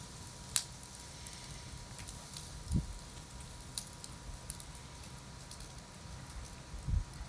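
Wood campfire crackling, with scattered sharp pops and two low thumps, one about a third of the way in and one near the end.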